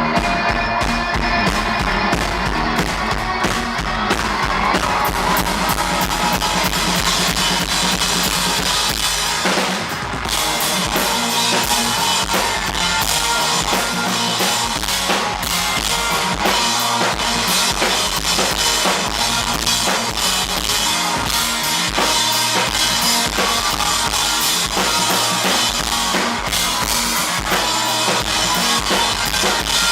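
Live rock band playing an instrumental passage, with a drum kit's bass drum and snare driving it over guitars. About ten seconds in the music dips briefly, and the drumming then comes back denser.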